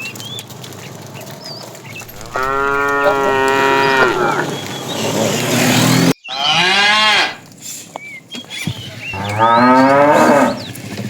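Cattle mooing: three long, loud moos a few seconds apart.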